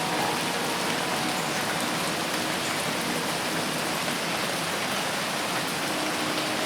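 Dense rain falling steadily, an even hiss that does not let up.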